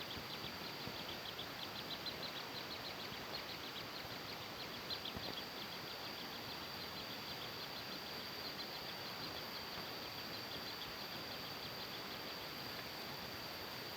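Steady outdoor hiss with an insect's continuous high, thin drone. For the first six seconds or so a fast series of faint, high chirps runs over it, then fades out.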